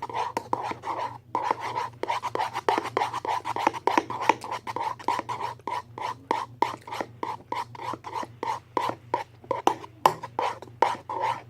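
Homemade slime being stirred in a bowl: rapid, uneven scraping and clicking of the utensil against the bowl, several strokes a second.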